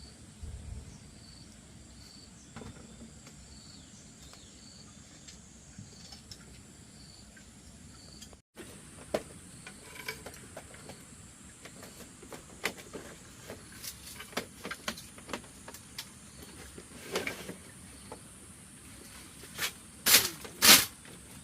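Crickets chirping in a steady, even rhythm. After a sudden cut, a run of irregular knocks and clicks takes over, with two loud knocks near the end.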